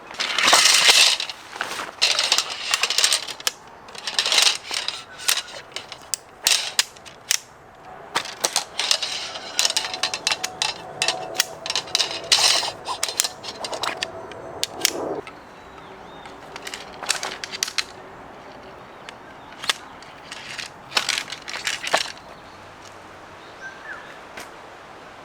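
Irregular clattering and knocking with rustling, loudest in the first few seconds, thinning out and stopping after about 22 seconds.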